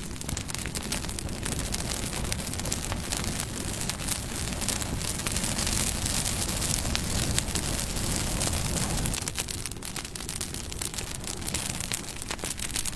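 Wood bonfire burning, with dense crackling and popping over a steady rush of flame, a little louder in the middle.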